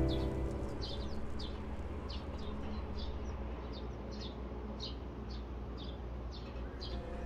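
A small bird chirping over and over, short high falling notes about twice a second, over a faint steady hiss.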